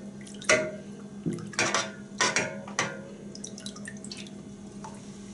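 Water splashing and dripping in about five short bursts, then a few lighter drips, as the knife or whetstone is rinsed after sharpening. A steady low hum runs underneath.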